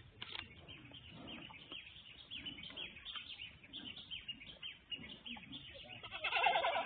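Small birds chirping, a steady run of short, quick, downward-sliding chirps several times a second, with a louder burst of sound near the end.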